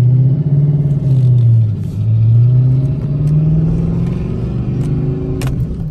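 Vehicle engine pulling under acceleration, heard from inside a pickup truck's cab. Its pitch dips about two seconds in, then climbs steadily, with a couple of sharp clicks near the end.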